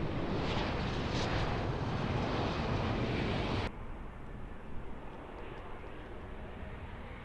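Airliner engines running loud and steady with a broad rumble and roar, cut off abruptly a little over halfway through. A quieter, more distant aircraft rumble follows.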